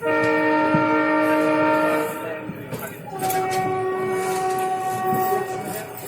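Indian Railways locomotive horn sounding two long blasts: the first about two seconds long, the second, lower in pitch, about three seconds long, over the rattle of the moving train.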